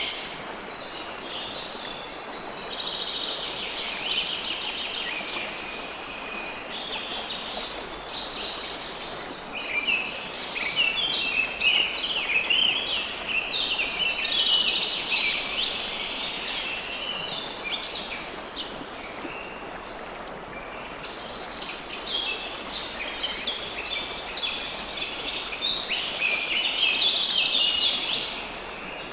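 River water flowing in a steady rush, under many birds chirping in quick overlapping bursts that come and go in waves.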